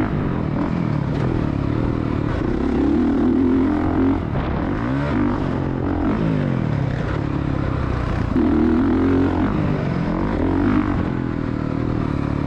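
Honda CRF450R dirt bike's single-cylinder four-stroke engine under riding load, its pitch climbing and dropping again and again as the throttle is opened and closed.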